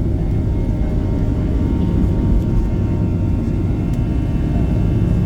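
Boeing 737-800's CFM56-7B turbofan engines running at high power during takeoff: a loud, steady, deep rumble with a steady whine of several tones over it.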